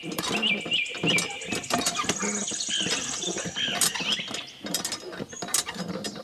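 Birds chirping in short, repeated calls that bend up and down in pitch, over a busy run of small clicks and ticks.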